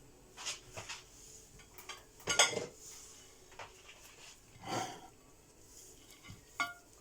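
Kitchen handling sounds: a few short clinks and clatters of utensils against dishes while food is being served up, the loudest about two and a half seconds in and another near five seconds.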